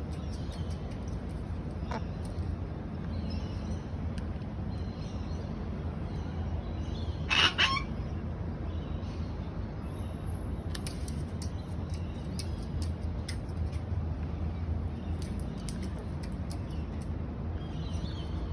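One harsh sulphur-crested cockatoo screech, about half a second long, a little past the middle, the loudest sound here. Under it runs a steady low rumble, with faint high calls now and then.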